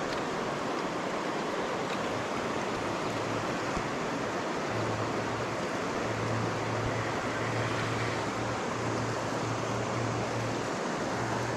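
River water rushing over a shoal, a steady even rush. A low steady hum comes in about a third of the way through and holds.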